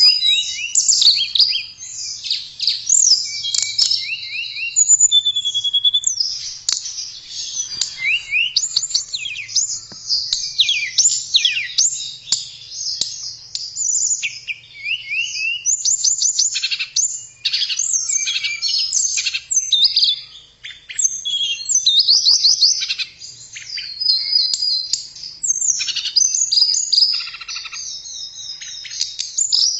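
Tledekan songbird singing a long, almost unbroken, varied song of rapid high chirps, pitch sweeps and fast trills.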